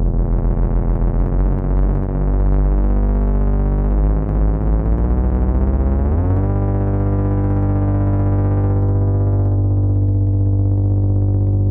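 Moog Minitaur analog bass synthesizer sounding a low, buzzing lightsaber-style hum with a rapid flutter. About five to six seconds in the pitch slides upward and the flutter stops, leaving a steady hum that turns duller near the end.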